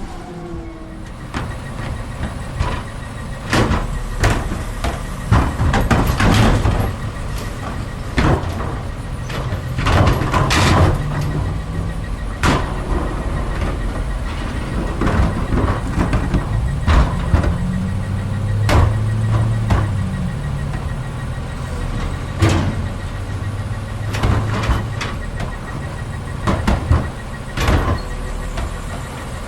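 Crane Carrier LET2 garbage truck with a Heil side-loader body at work: its engine runs steadily, then speeds up and grows louder for a few seconds midway as the hydraulics work. Many sharp clanks and knocks of cans and trash are heard throughout.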